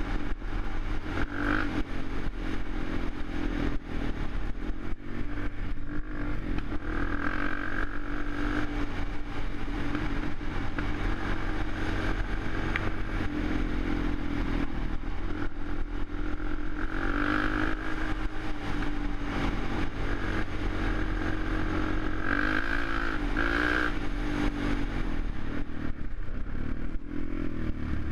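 Suzuki LTZ 400 quad's single-cylinder four-stroke engine running, its pitch rising and falling several times as the throttle is worked.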